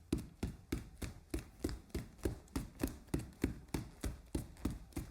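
DK61 mechanical keyboard keys struck one after another in an even rhythm, about three keystrokes a second, each a clack with a low thud.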